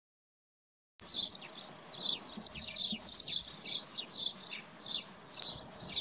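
A bird chirping repeatedly in short, high calls, about one or two a second, starting about a second in.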